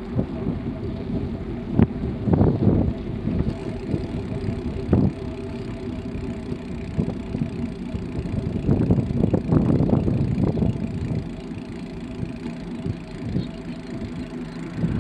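Bicycle being ridden: a steady hum of tyres and drivetrain, with bursts of rattling about two seconds in and again around nine to ten seconds, and a few single knocks.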